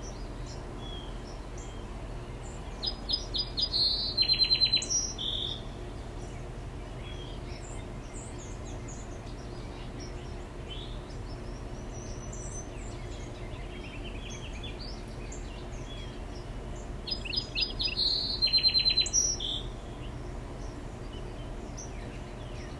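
A songbird singing the same short song twice, about fourteen seconds apart: a run of quick repeated high notes ending in a buzzy trill. Fainter chirps from other birds come between the songs, over a steady low background hum.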